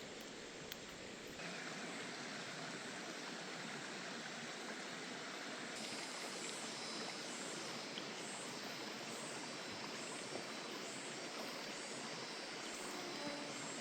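Running water of a forest stream, a steady rush that gets a little louder about a second in.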